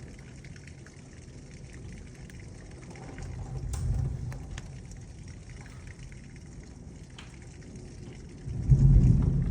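Thunderstorm rain heard from inside a house as a steady hiss with faint scattered ticks. A low rumble of thunder swells about four seconds in, and a louder one comes near the end.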